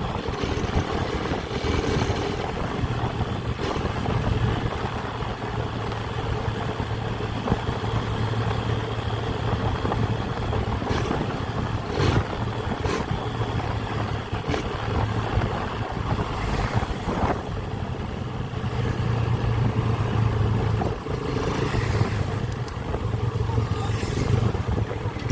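Motorcycle engine running steadily while riding, its low drone holding fairly even throughout, with a few brief clicks around the middle.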